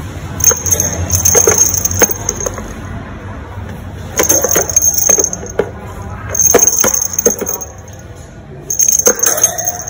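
Metallic jingling and clinking in four short bursts, each a shimmer of high ringing with sharp clicks, separated by quieter pauses.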